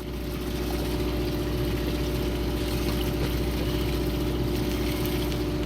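Fishing boat's machinery running steadily: a low rumble with a constant, even-pitched hum on top.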